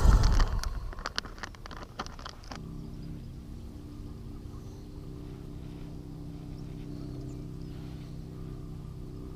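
A few sharp knocks and clatter in the first couple of seconds, then a steady low boat motor hum starts about two and a half seconds in and holds evenly.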